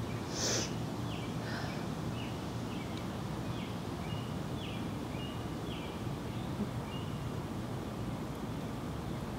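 Outdoor background rumble with a small bird giving a run of short, falling chirps, about two a second, plus a brief breathy hiss about half a second in.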